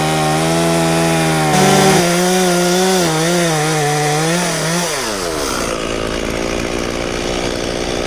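Portable bandsaw sawmill's gas engine running at high speed, its pitch wavering under load as the blade cuts through an ash log, then winding down steeply to idle about five seconds in.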